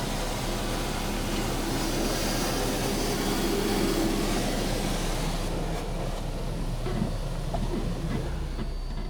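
Belanger Vector automatic car wash machinery running: a steady hiss over a low hum, the hiss dying away about halfway through.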